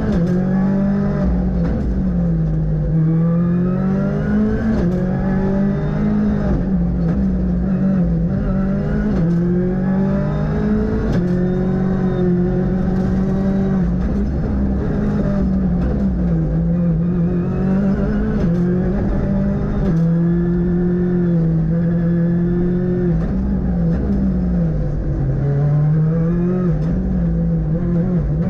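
Ford Fiesta R5 rally car's turbocharged 1.6-litre four-cylinder engine at full stage pace, heard from inside the cabin. The pitch climbs under acceleration and drops back at each gear change or lift, over and over, with short sharp clicks and pops in between.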